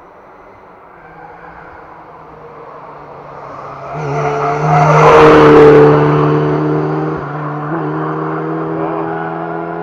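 Rally car engine at high revs as the car approaches and passes close by, loudest about five to six seconds in and then fading down the road. The engine note breaks briefly about three quarters of the way through.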